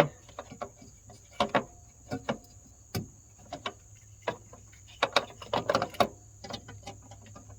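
Irregular plastic and metal clicks and knocks from hands working at the back of a headlight housing in a car's engine bay, with a busier run of rattling about five to six seconds in. A steady high chirring of crickets runs underneath.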